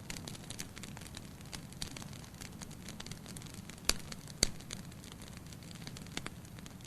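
Wood fire burning in a fireplace, crackling with frequent small snaps over a low steady rumble, and two louder pops about halfway through.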